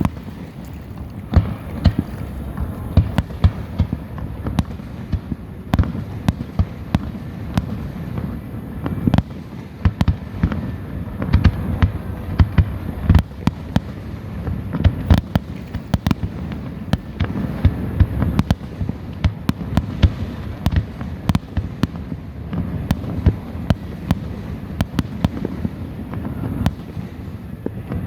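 Fireworks going off, many irregular sharp bangs and pops over a steady low rumble of distant explosions.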